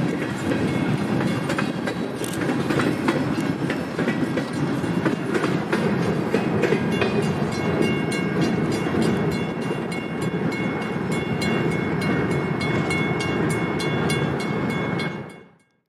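Freight train boxcars rolling past, wheels rumbling and clicking over the rail joints, with a thin steady high ring from about halfway in. The sound fades out quickly near the end.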